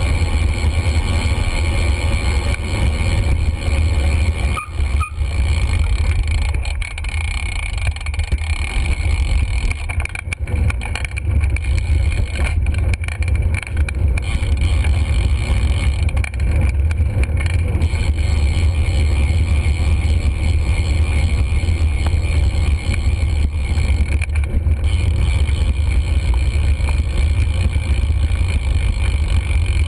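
Steady, loud low rumble of wind buffeting and road noise on a bike-mounted GoPro's microphone during a ride, with a couple of brief dips.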